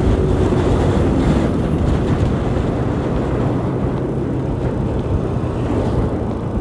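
125cc motorcycle riding along the road: a steady wind rush over the microphone with the engine's hum underneath.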